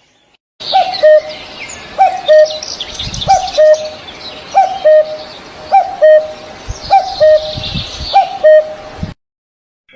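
Birds calling: one bird repeats a low two-note call about once a second, a short falling note followed by a longer held one, over busier high chirping from other birds. The sound starts and cuts off abruptly.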